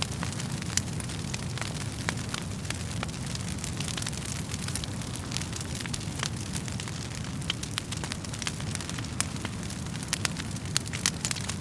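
Wood fire burning in a fireplace: a steady low rumble of the flames with frequent irregular sharp crackles and pops from the burning wood.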